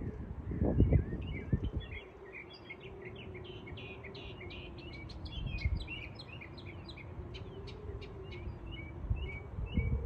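Songbird singing a rapid run of short chirps. Gusts of wind rumble on the microphone about a second in and again near the end, over a faint steady hum.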